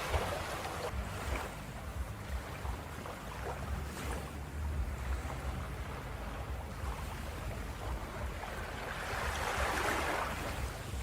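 Ocean waves on a beach: a steady wash of surf over a low rumble, with a wave building and breaking about nine to ten seconds in.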